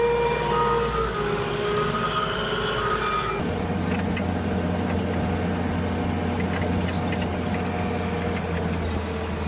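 Heavy truck engine running, with a whining tone over about the first three seconds; about three and a half seconds in, the sound switches to a steady low engine drone.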